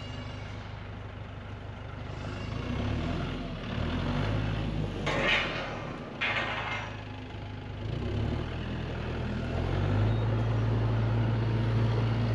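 A heavy vehicle's engine running, its speed and level stepping up several times as it works, with two short hissing bursts about halfway through.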